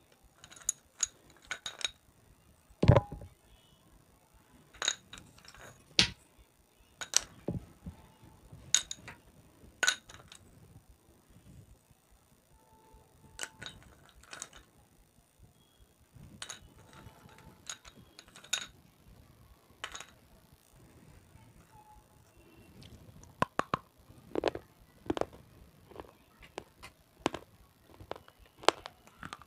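Close-miked crunching of a hard, brittle red slate pencil being bitten and chewed: sharp, irregular snaps and cracks with short pauses between them. The loudest crack comes about three seconds in, and the snaps bunch more densely near the end.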